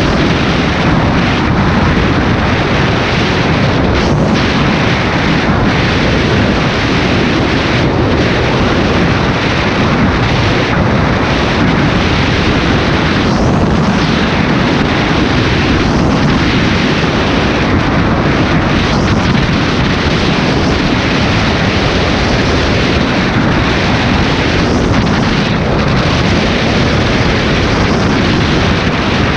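Steady rush of riding wind on the microphone of a moving Honda Tornado motorcycle, loud and unbroken, with its single-cylinder engine running underneath.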